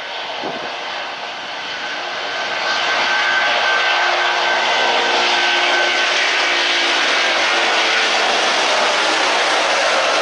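Jet airliner engines, a loud, steady rush with a faint whine in it. It builds over the first two and a half seconds, then holds steady.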